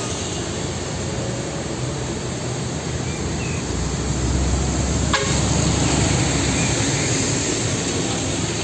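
Steady motor-vehicle running noise, a dubbed-in sound effect that cuts in and out abruptly. It swells slightly in the middle, with a single click about five seconds in.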